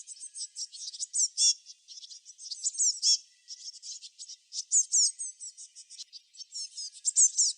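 Small songbirds chirping and twittering together: a continuous overlapping stream of high, quick chirps and short downward-sweeping notes.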